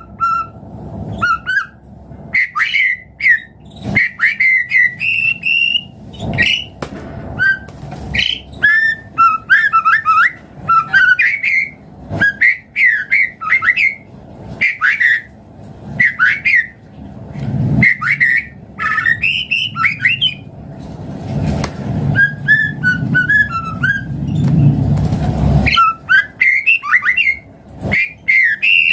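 White-rumped shama (murai batu) singing: a long run of short, varied whistled phrases with notes sliding up and down, one after another with brief gaps. A low rumble sits underneath and swells twice in the second half.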